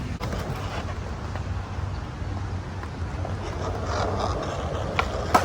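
Steady low outdoor rumble and hiss of wind and city traffic, with two sharp skateboard clacks close together near the end.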